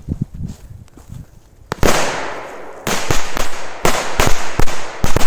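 A bundle of firecrackers going off. One sharp bang comes a little under two seconds in, then from about three seconds a rapid, irregular string of loud bangs follows close together.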